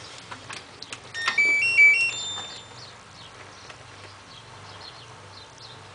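An LG F1222TD washing machine's electronic power-on chime: a short tune of stepped beeps lasting about a second and a half, starting about a second in just after a button click.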